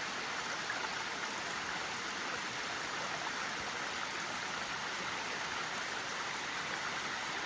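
Log Hollow Falls, a 38-foot waterfall, pouring steadily into its pool: a constant, even rush of falling water.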